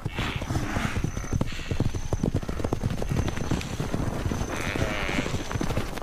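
Wildebeest herd stampeding, a rapid drumming of many hooves on dry ground, with brief animal calls over it.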